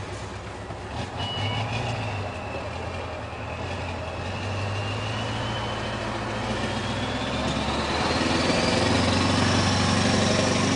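Scania R500 truck's V8 diesel engine running, growing steadily louder, with a thin whine that rises in pitch over the second half.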